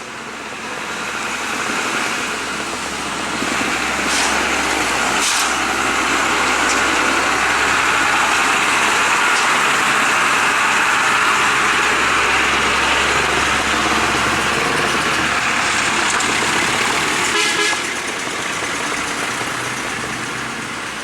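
Heavy vehicle's engine running hard under load. It grows louder over the first few seconds, holds loud, then drops off sharply about eighteen seconds in.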